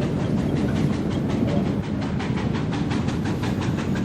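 Oil-fired steam locomotive running at speed, heard from its cab: a steady low rumble with a fast, even clatter.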